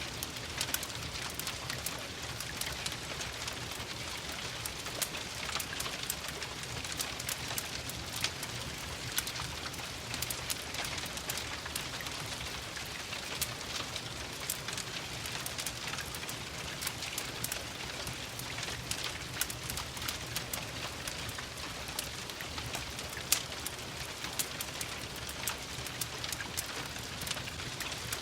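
Steady rain hissing, mixed with the irregular sharp pops and crackles of a burning wood fire; one louder pop about 23 seconds in.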